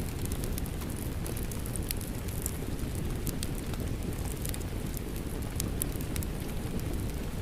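Fireplace crackling, with frequent sharp pops scattered irregularly throughout, over a steady bed of rainfall.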